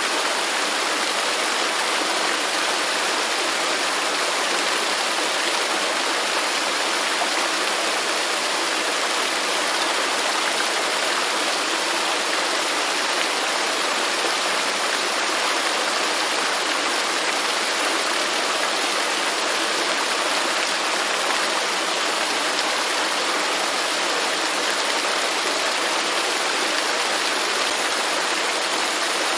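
Waterfall rushing steadily, a continuous even roar of falling water with no breaks or changes.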